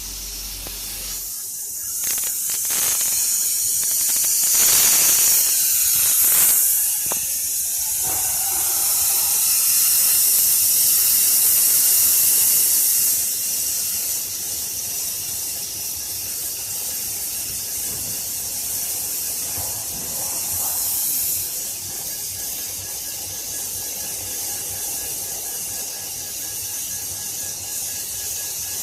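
LD 1610 double-head CO2 laser cutting machine running with a steady, loud hiss that swells for a long stretch in the first half and again briefly about two-thirds of the way through.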